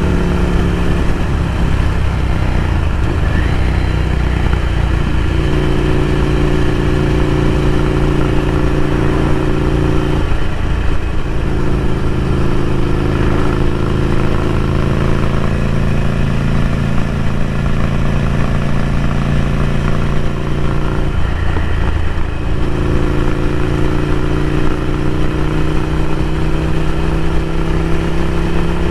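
Ducati Scrambler Café Racer's 803 cc air-cooled L-twin running through a Vance & Hines slip-on exhaust under way. Engine speed mostly holds steady, dips briefly about 10 and 21 seconds in, and rises slowly near the end.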